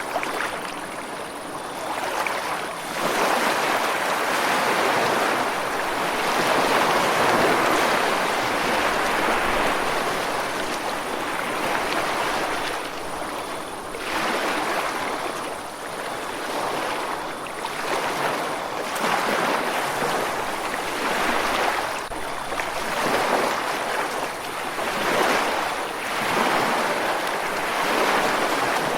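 Ocean surf breaking and washing up a shore, the rushing noise swelling and ebbing every few seconds as waves come in.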